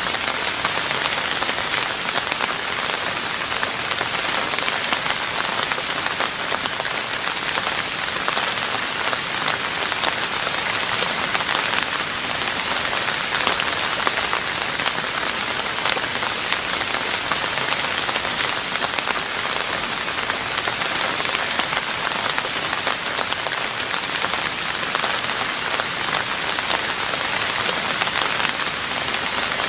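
Steady rain falling on a roof, an even patter of many small drop hits with no let-up or change in strength.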